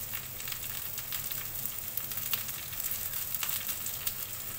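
Halved Brussels sprouts frying in a hot pan with oil and maple syrup: a steady sizzle with fine crackles and spatters throughout.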